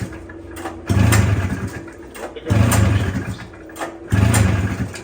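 Two-stroke snowmobile engine being cranked over three times, each turn-over a short burst of under a second about every second and a half, not catching.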